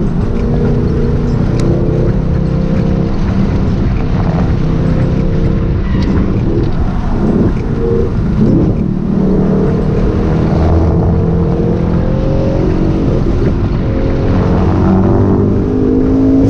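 Car engine running hard under acceleration, heard from inside the cabin, its pitch climbing and dropping several times as it works through gears and bends, over steady road and tyre noise.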